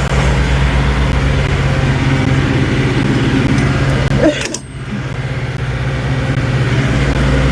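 Semi-truck's diesel engine idling with a steady low hum, which weakens briefly about halfway through.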